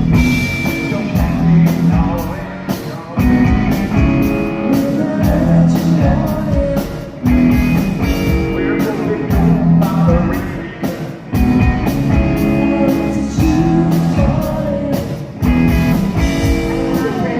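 A rock band playing live through an instrumental passage, with electric guitar over a steady drum beat.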